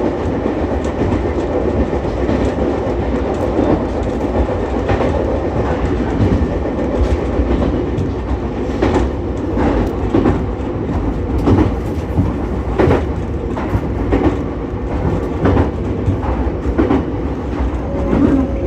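Ichibata Electric Railway 7000-series electric train running along the line: a steady rumble of wheels on rail, with clacks over rail joints every second or two.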